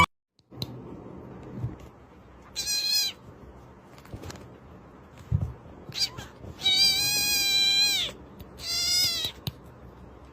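A domestic cat meowing three times: a short meow, then a long drawn-out one, then a shorter one soon after.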